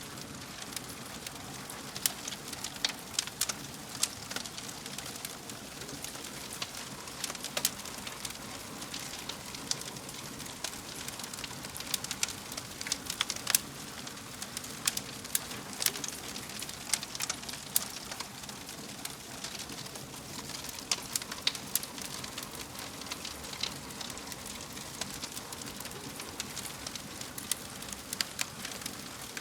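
Wood fire in a fireplace crackling: a steady hiss with frequent irregular sharp pops and snaps.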